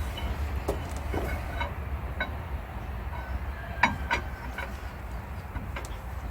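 Scattered light clicks and knocks of metal parts and tools being handled during hand assembly of a truck's hub-reduction gearing, over a steady low hum. The sharpest knock comes about four seconds in.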